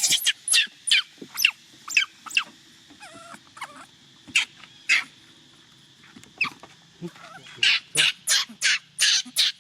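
Baby macaque crying in distress for its mother: a run of short, shrill cries about two or three a second, with a few softer wavering whimpers in a lull midway, then quicker cries again near the end.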